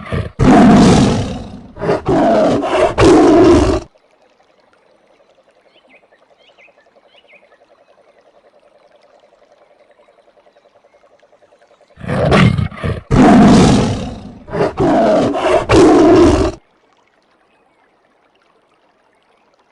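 Tiger roaring: a run of loud roars, then a faint low rapid pulsing for several seconds, then a second run of loud roars about twelve seconds in.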